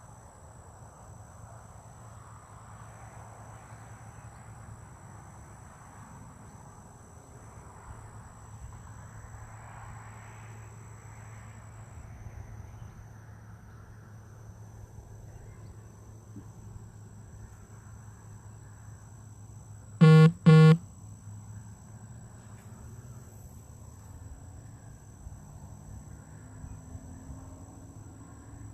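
Outdoor ambience: steady high insect-like tones over a low, even hum. About twenty seconds in, two loud, short honks come in quick succession.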